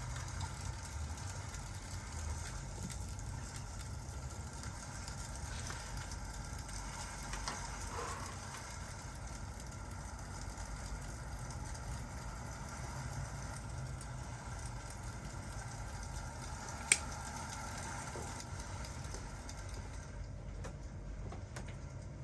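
Crackling fireplace and rain ambience: a steady low rumble and hiss with faint scattered crackles, and one sharp click about seventeen seconds in.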